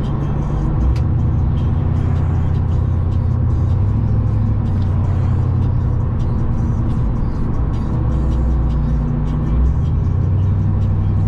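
Chevy C10 square-body pickup driving: a steady low engine and road drone, with music playing over it.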